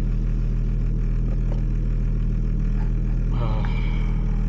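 Toyota Supra's engine running steadily, heard inside the car's cabin as an even low drone, with a brief higher-pitched sound about three and a half seconds in.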